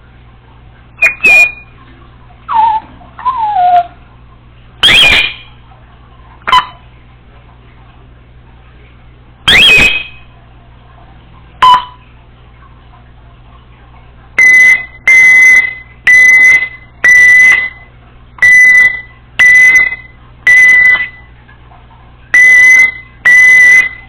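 Congo African grey parrot giving scattered loud whistles and squawks, one a falling whistle, then a run of about ten loud alarm-like beeps on one steady pitch, a bit under a second apart.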